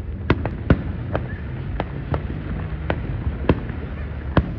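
Aerial fireworks shells bursting: about nine sharp bangs at irregular intervals, over a steady low rumble.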